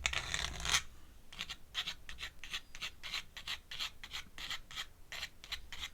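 Ink pen scratching on paper: one longer stroke, then a run of short, quick hatching strokes, about three a second.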